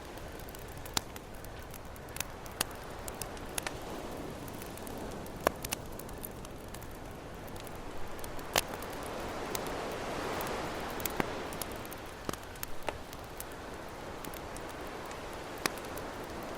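Campfire crackling with sharp, irregular pops over the steady wash of ocean waves. A wave swells up and falls back about halfway through.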